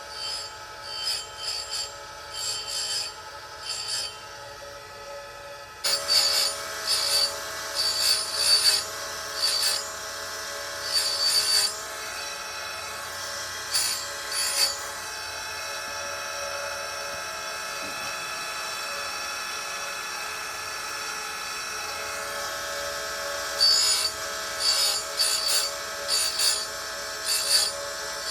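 Oregon 410-120 chain grinder with a CBN wheel running with a steady motor hum while chainsaw chain cutters are ground one after another: short, bright rasps at about one a second. Partway through the rasps stop for several seconds with only the motor running, then the grinding resumes near the end.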